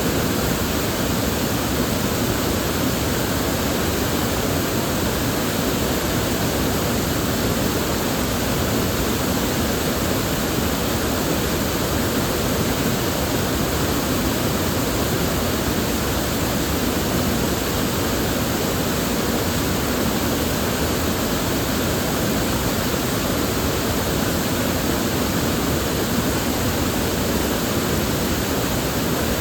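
River water flowing and rushing in a steady, even hiss with no breaks or single events.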